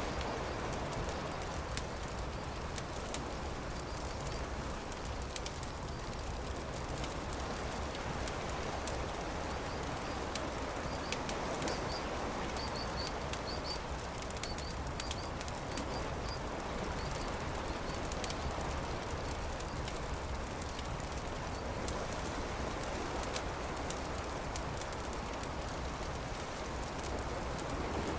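Campfire crackling with many small sharp pops over a steady rushing hiss. A bird calls a run of short, high chirps in the middle.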